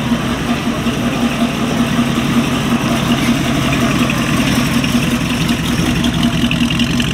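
Hot rod roadster's engine running at low speed as the car rolls slowly past, a steady pulsing rumble.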